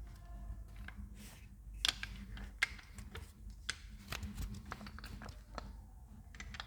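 Scattered light clicks and taps of handling noise, about a dozen, irregularly spaced, over a low steady hum.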